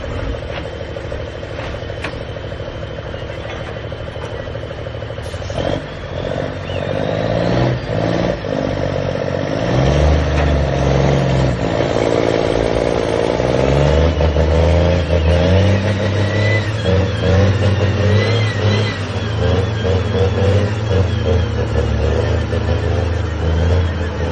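Logging truck engine running, louder from about six seconds in, its pitch rising and falling as it is worked, with clatter and knocks over it.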